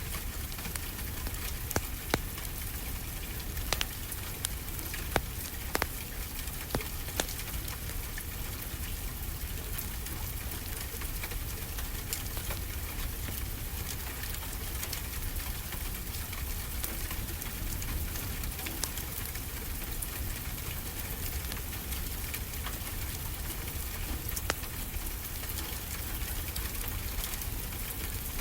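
Steady rain falling, with a wood fire crackling: sharp pops come several times in the first few seconds and once more near the end.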